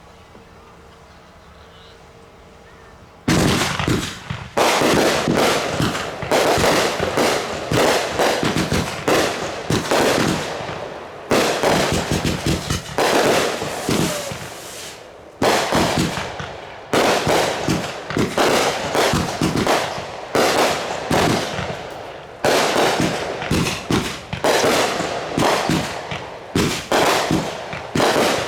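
Consumer fireworks going off in a rapid barrage. After about three seconds of low background hum, a dense string of bangs and crackling bursts starts suddenly about three seconds in and keeps going, rising and falling in waves every couple of seconds.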